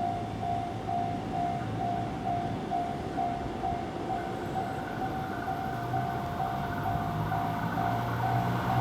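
Station platform warning beeper pulsing about twice a second, signalling an approaching train that will pass without stopping. The low rumble of the approaching train grows in the second half.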